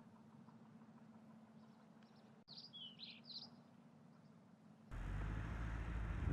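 Outdoor ambience with small birds chirping: a cluster of short, falling chirps about halfway through over a faint steady hum. Near the end the background cuts suddenly to a louder low outdoor rumble, with more chirps.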